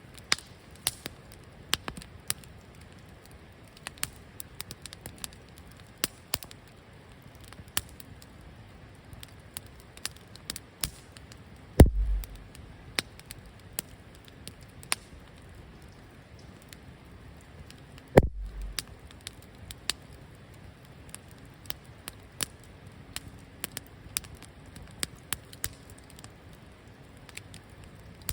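Wood campfire burning, crackling and popping with many irregular sharp snaps. Two louder knocks stand out, one about twelve seconds in and another about six seconds later, each with a brief low thud after it.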